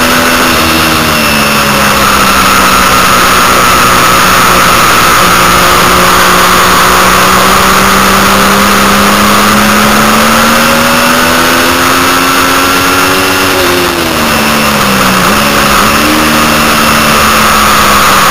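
Triumph Daytona 675's inline three-cylinder engine running hard at high revs under heavy wind rush, its pitch slowly rising and falling. About three-quarters of the way through the revs drop sharply twice, as if easing off and shifting down for a corner, then climb again.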